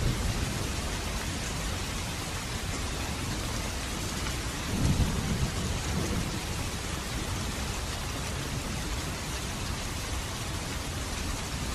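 Steady rain falling, with a brief low rumble of thunder about five seconds in.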